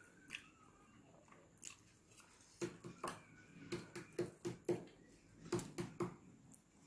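Chewing and lip-smacking while eating fufu and okra soup. Mostly quiet at first, then a run of quick wet smacks and clicks, two or three a second, from about two and a half seconds in.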